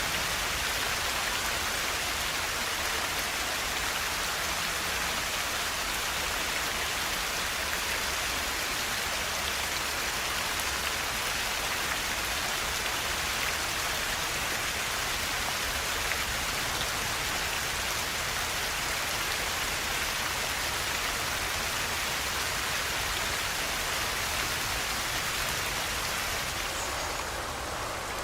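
A forest river flowing, a steady, even rush of water with no break. Near the end it turns slightly quieter and duller.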